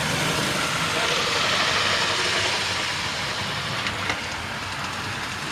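Model Hymek diesel locomotive running along the layout track, a steady rushing rumble of wheels and motor that swells about two seconds in and then eases off.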